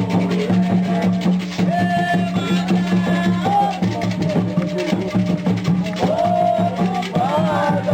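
Candomblé ritual music: drums beaten in a steady, fast rhythm with a sharp wood-block-like percussion tick, under voices singing.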